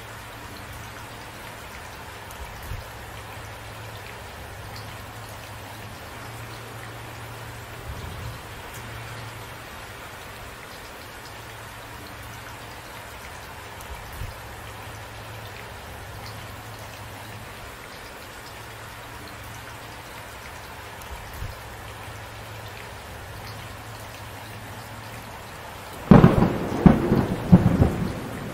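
Steady rain falling, with a few faint low rumbles. Near the end a loud, close thunderclap breaks in as a run of sharp crashes.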